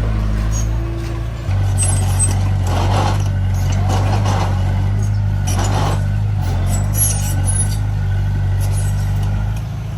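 Heavy diesel engine of an earthmoving machine running steadily, getting louder about a second and a half in, with three short noisy bursts over it in the middle.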